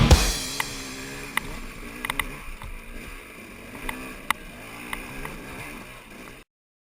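Dirt bike engine running at low revs, its pitch wavering, with scattered sharp clicks; it cuts off abruptly near the end.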